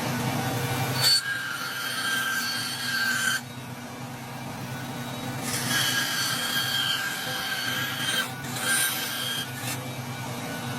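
Woodworking power tool working wood under a steady motor hum, with three passes of a whining, rasping cut or grind, each a few seconds long.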